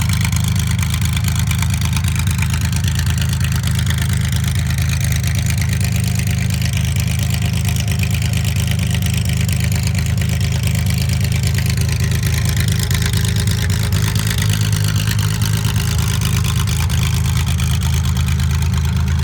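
1974 Porsche 911 RSR race car's air-cooled flat-six idling steadily as it warms up after a cold start, with a slight slow rise and fall in pitch through the middle.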